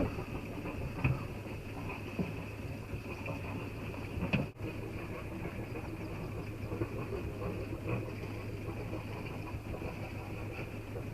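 Boat engine running with a steady hum, with a few light knocks and a brief dropout about four and a half seconds in.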